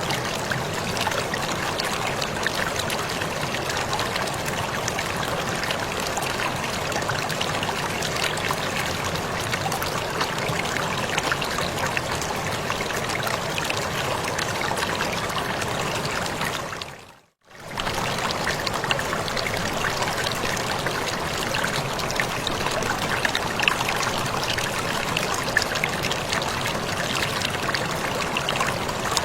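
Steady rushing and splashing of a waterfall, an even wash of water noise; about 17 seconds in it fades out to near silence for a moment and comes straight back, like a loop point in the recording.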